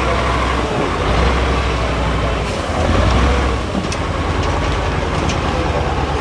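Diesel engine of a 6x6 Ural off-road truck running under load, its revs swelling and easing every second or two.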